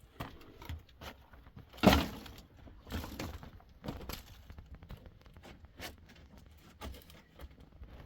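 A series of irregular knocks and cracks, with one much louder crack about two seconds in.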